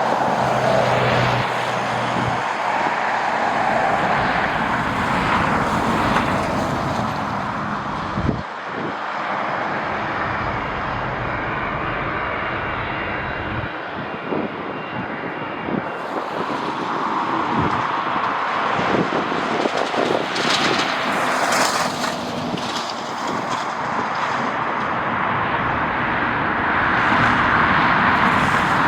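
Jet airliner engines running, a continuous rushing noise that swells slightly near the start and again near the end.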